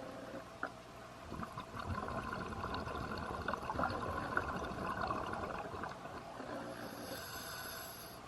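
A scuba diver breathing through a regulator underwater: exhaled bubbles crackle and gurgle for several seconds in the middle, over a steady hum.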